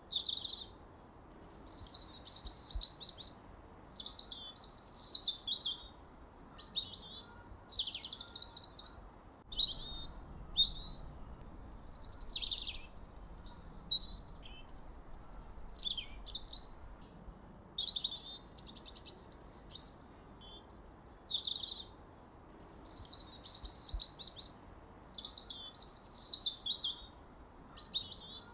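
Songbirds singing: a string of short, high chirping and trilling phrases, many of them sweeping downward, following one another every second or two.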